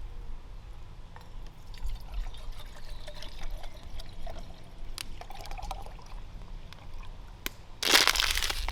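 Small waves lapping and splashing against a lake shoreline, with wind rumbling on the microphone. A louder rush of noise comes in near the end.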